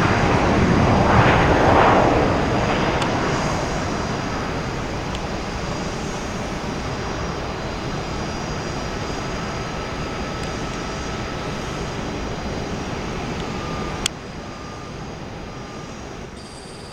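Jet noise from a Boeing 777-200ER's GE90 turbofans: a broad rumble with a steady high whine, fading gradually as the airliner moves away. A click about fourteen seconds in, after which the sound is quieter.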